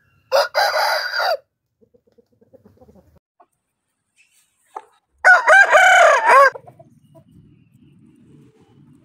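Aseel roosters crowing: two crows about five seconds apart, the first about a second long and the second slightly longer.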